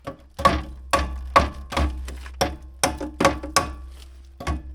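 Hammer tapping a metal bracket over into place, a dozen or so sharp ringing strikes at an uneven two to three a second, with a short pause near the end.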